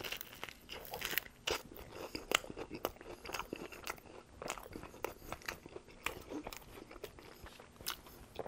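A person biting into and chewing a BLT sandwich with avocado, heard up close: a run of irregular crisp crunches, one sharper crunch a little over two seconds in.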